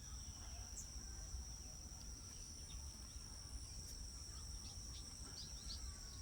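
A steady, high-pitched insect trill, like a cricket, runs throughout. Faint short bird chirps come in over it, more of them in the second half.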